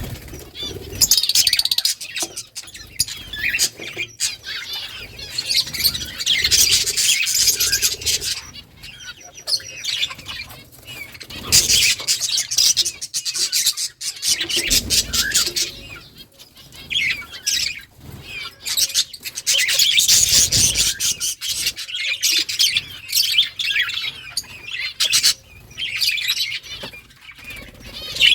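A colony of budgerigars chirping and chattering together in repeated bouts, several seconds each, with quieter gaps in between.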